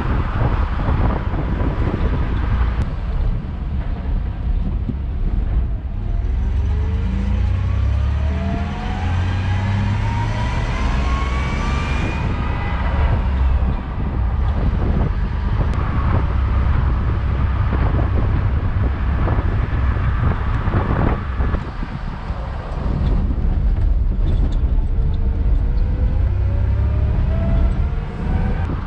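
Stripped-down 1995 Chevy Silverado pickup driving, its engine note rising steadily as it accelerates about a quarter of the way in and again near the end, over a heavy low rumble of wind and road noise.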